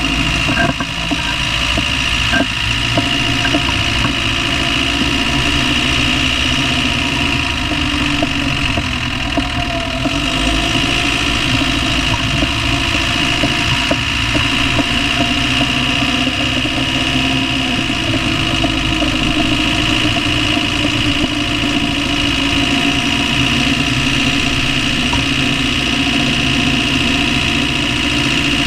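Land Rover 300Tdi 2.5-litre four-cylinder turbodiesel engine idling steadily with a knocking noise whose cause the owner does not know.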